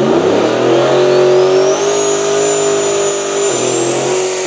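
Drag-racing car engine revving hard and held at high revs during a burnout, easing off slightly about three and a half seconds in. A thin high whine climbs in pitch over it.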